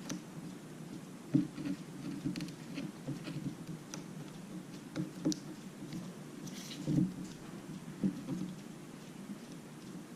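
Scattered light clicks and taps of small parts and tools being handled on a work surface during a tablet repair, coming at irregular intervals.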